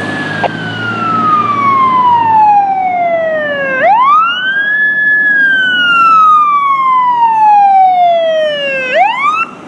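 Fire engine siren in wail mode: a loud tone that slides slowly down in pitch over about four seconds, then sweeps quickly back up, through two full cycles. It cuts off suddenly near the end.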